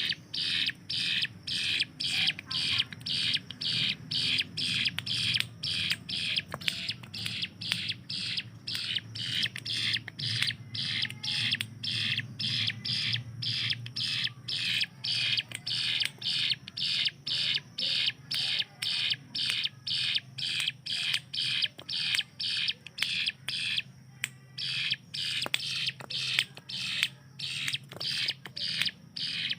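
Ciblek gunung (a prinia) calling in a long rapid series of short, sharp notes, about two a second, with one brief break late on. This machine-gun-like 'tembakan' call is the bird in full song. A faint low hum runs underneath.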